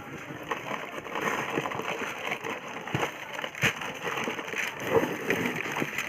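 A water pump assembly's packaging being handled and opened by hand: irregular rustling and crackling with a few sharp knocks.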